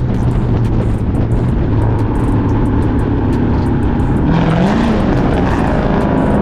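Straight-piped, catless Chrysler 300C Hemi V8 with an aftermarket cam, running loud through its open exhaust while driving. The pitch holds steady, rises and dips briefly a little past the middle, then settles into a steady drone.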